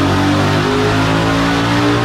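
Twin-turbocharged 5.0 Coyote V8 of a Ford Mustang GT running on a chassis dyno.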